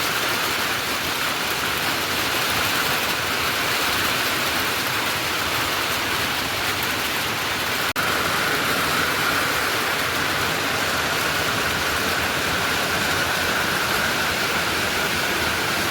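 Heavy rain falling, a loud, steady hiss that keeps up throughout, with a momentary break about eight seconds in.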